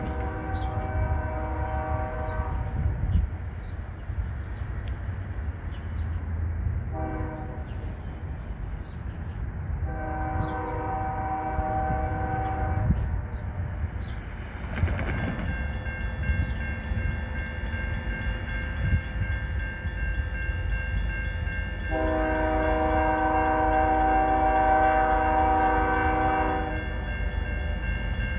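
A diesel freight locomotive's air horn sounds a series of blasts over the low rumble of the train: a long blast, a short one, another long one, then a longer final blast near the end. A steady higher-pitched tone joins about halfway through, and birds chirp faintly in the first seconds.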